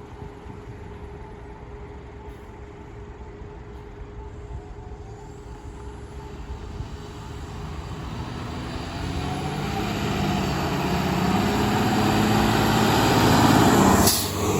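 Heavy fire apparatus, a fire engine or ladder truck, approaching: its diesel engine grows steadily louder over the second half, peaking as it passes close by. A brief sharp noise comes near the end.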